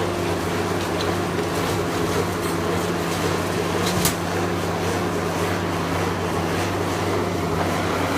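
An engine running steadily at a constant speed, with a single sharp click about four seconds in.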